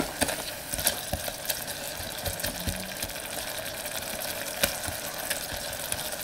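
Sliced onions and a little gravy sizzling steadily in the stainless inner pot of a small electric pressure cooker on sauté mode. A silicone spatula stirs them, with scattered light scrapes and taps against the pot.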